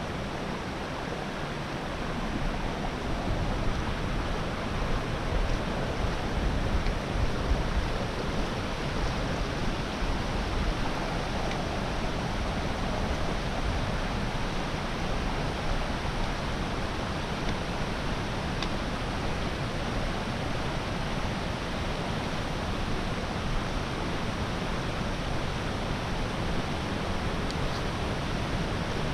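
Rain-swollen mountain creek rushing steadily, a dense, unbroken sound of water.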